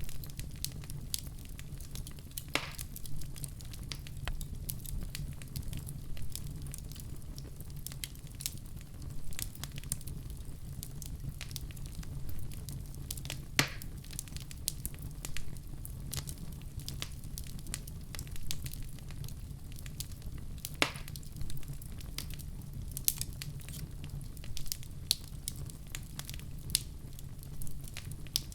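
Wood fire in a fireplace crackling steadily over a low rumble of flames, with a few louder pops.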